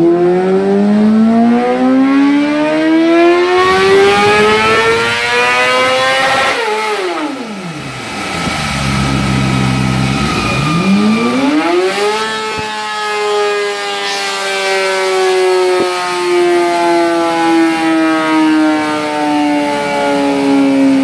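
Superbike racing engine at high revs. The note climbs steadily for about six seconds, drops away sharply, and sits low for a couple of seconds. It then climbs again and holds high, sinking slowly toward the end.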